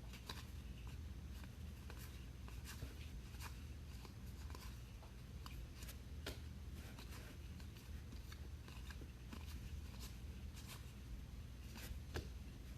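Baseball trading cards being flipped through by hand: soft, irregular clicks and rustles as each card slides off the stack, over a low steady hum.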